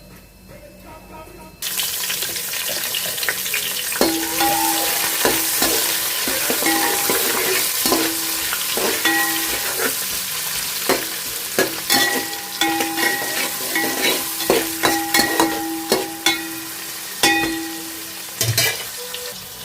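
Food sizzling loudly in hot oil in a cooking pot, starting abruptly about two seconds in. From about four seconds in, a metal spoon stirs and repeatedly knocks and scrapes against the pot, making it ring, until near the end.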